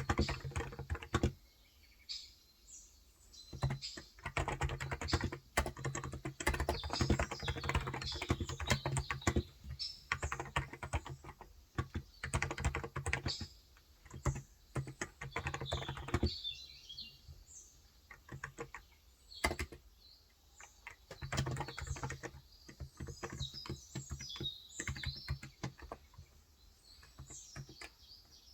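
Typing on a Cox Endeavour contactless (electrostatic capacitive) 35 g tenkeyless keyboard: quick runs of soft key clicks, with short pauses about two seconds in and about sixteen seconds in, and looser typing after that. Small birds chirp in the background.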